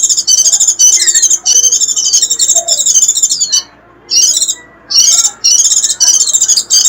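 White-eye (vành khuyên) giving its rapid, high-pitched twittering 'rít' call in long, unbroken runs, with a pause of about a second a little past the middle. This is the excited call that bird-keepers play to lure wild white-eyes in.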